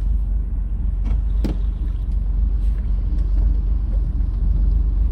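Steady low rumble of a fishing boat's engine, with a few short clicks at about one and one and a half seconds in.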